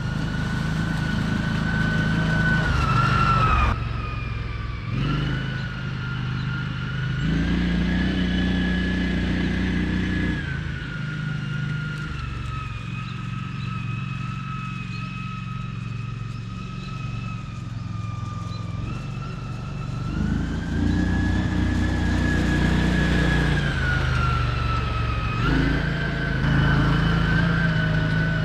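American Landmaster L5 UTV with its 570cc Vanguard engine driving along, speeding up and easing off, with a high whine that rises and falls in pitch with speed. The engine eases off sharply about four seconds in, then picks up again.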